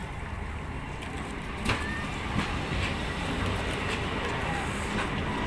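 Train running, a steady low rumble that slowly grows louder, with a couple of sharp knocks about two seconds in.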